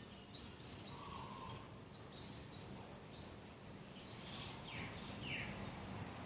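Birds calling in a garden: scattered short, high chirps, a brief lower call about a second in, and two quick downward-sweeping notes near the end, over a faint steady background hum.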